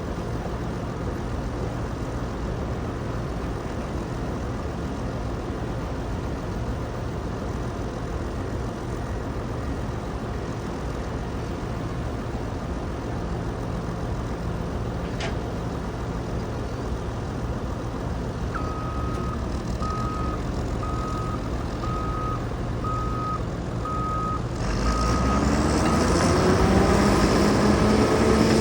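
Caterpillar bulldozer's diesel engine running steadily, its reverse alarm beeping about once a second from about two-thirds of the way in. Near the end the engine gets louder and rises in pitch as it takes up load.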